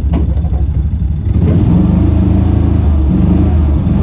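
Tractor engine running with a steady low chug, then revving up louder and harder about a second in as it labours in snow. A brief knock sounds right at the start.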